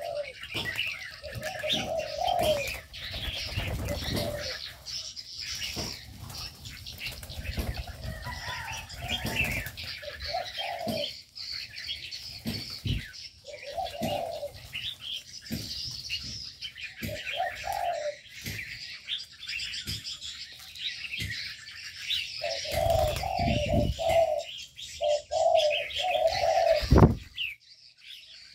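Aviary birds: doves give low cooing phrases every few seconds, with several in a row near the end, over constant high twittering of small birds and occasional wing flaps. A loud thump comes near the end.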